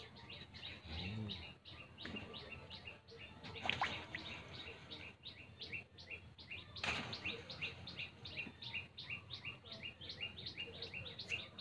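A bird chirping over and over in short, high notes, about four a second and evenly spaced. There are two brief noises about four and seven seconds in.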